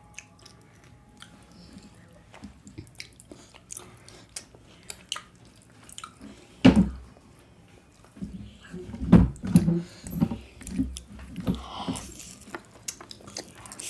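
Close-up eating sounds: scattered mouth clicks and chewing, a single louder knock about six and a half seconds in, then a denser run of louder chewing and biting in the second half.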